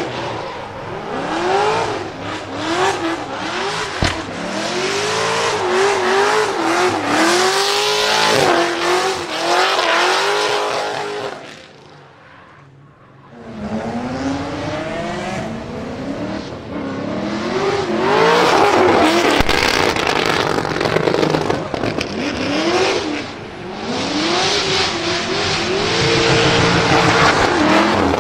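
LS7 V8 engine swapped into a Nissan 200SX pickup, revved over and over, its pitch climbing and falling every second or two. It drops away briefly about twelve seconds in, then picks up with more revving.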